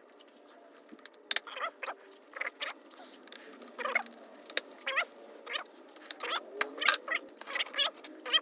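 Metal engine parts and tools being handled during engine disassembly: a string of short, irregular clinks and squeaks.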